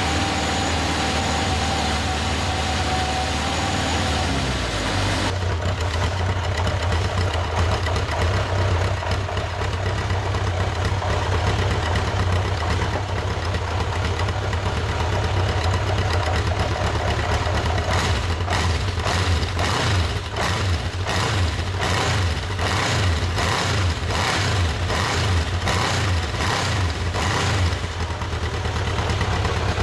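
Honda CB750F's air-cooled inline-four running at idle after a cold start. The note changes about five seconds in. In the second half it pulses unevenly about twice a second with short rises in pitch.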